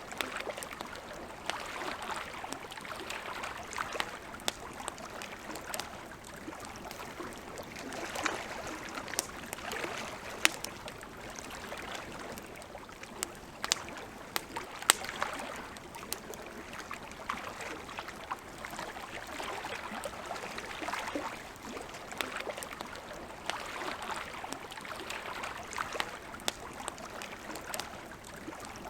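Wood campfire crackling with scattered sharp pops, two or three of them much louder in the middle, over a soft rushing hiss that swells and fades every few seconds.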